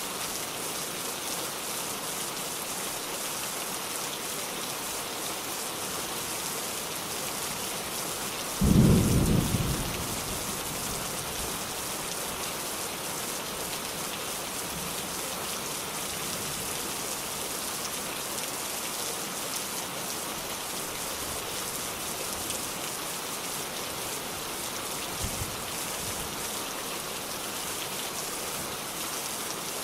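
Steady rain hissing, with a sudden low thunderclap about nine seconds in that rumbles away over a second or two. A much fainter, brief low rumble follows later.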